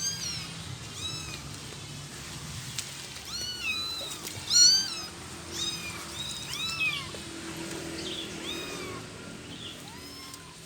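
Stray kittens mewing over and over, short high-pitched calls about once a second, several overlapping. The loudest call comes a little over four seconds in.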